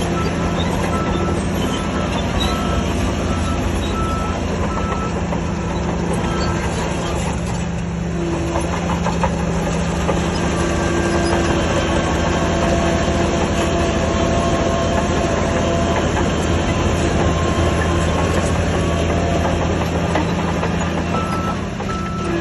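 Heavy diesel earthmoving machine running steadily under load. A reversing alarm beeps about once a second for the first few seconds, then comes back near the end.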